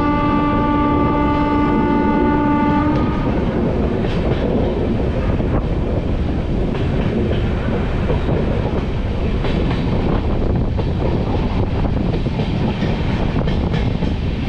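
A locomotive horn sounds one long steady blast that ends about three seconds in. Under it, and after it, the moving passenger train rumbles steadily on the track with scattered wheel clicks.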